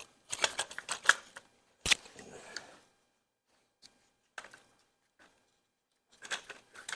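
Light clicks and clatter of hand tools and small engine parts being handled, in short clusters, with one sharp knock about two seconds in.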